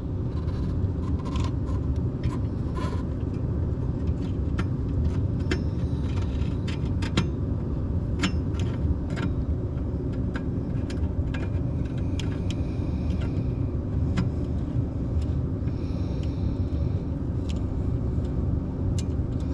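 Scattered small clicks and taps of parts being handled while a xenon headlight bulb is fitted into its housing, over a steady low rumble.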